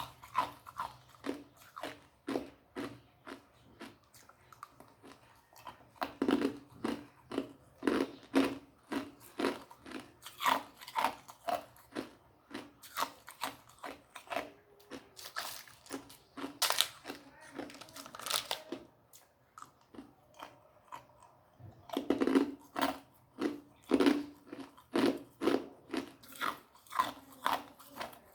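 A person biting and chewing ice, a steady run of sharp crunches about two a second, with a pause of a few seconds about two-thirds of the way through.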